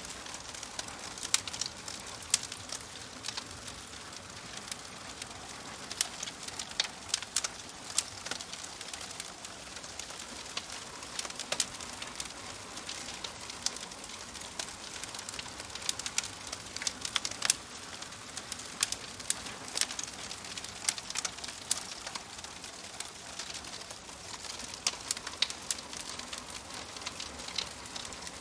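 Wood fire crackling: irregular sharp pops and snaps, several a second at times, over a steady soft hiss.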